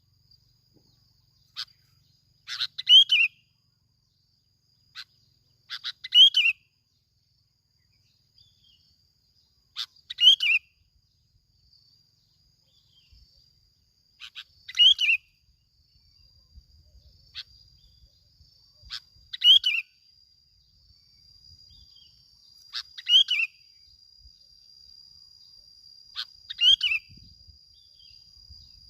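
Yellow-vented bulbul singing short, bright, falling song phrases, repeated about every three to four seconds. A steady thin high tone runs underneath.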